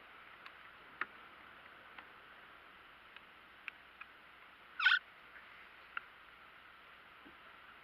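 Steady faint hiss with scattered small sharp clicks and one short, high squeak about five seconds in.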